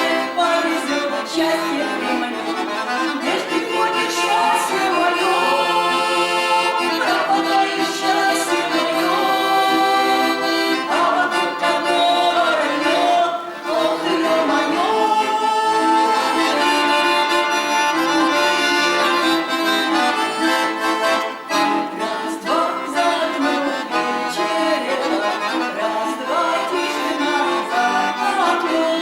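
Accordion playing an instrumental tune, with full sustained chords under a moving melody.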